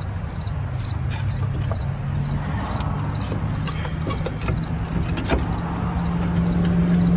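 A steady low mechanical hum, its pitch rising slightly in the second half, with a few light clicks and knocks from the hub assembly being handled and fitted back onto the axle.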